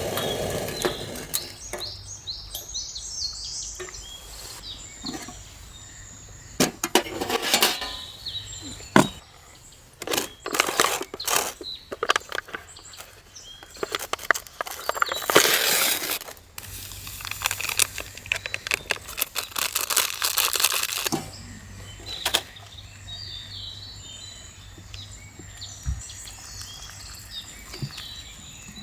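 Irregular cracks, knocks and rustling from handling things at a campsite, with birds chirping a few times in the background.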